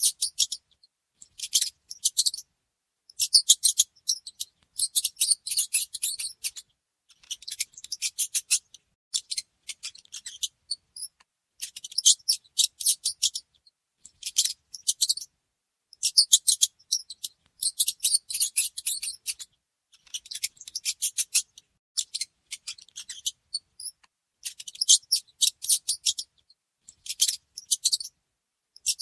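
Mouse squeaking in quick high-pitched chirps, in short bursts of about a second, over and over, with silent gaps between.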